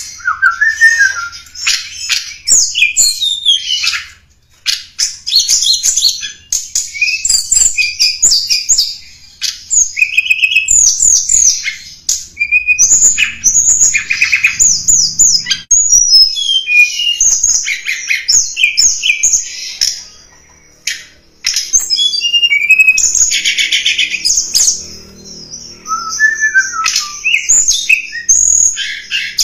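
Tledekan gunung songbird song played as a lure call: fast, high chirps, trills and sweeping notes in long busy runs, broken by two short pauses.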